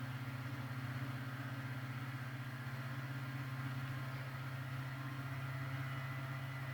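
Airliner engines droning steadily in the passenger cabin: a constant low hum with a faint hiss, holding even throughout.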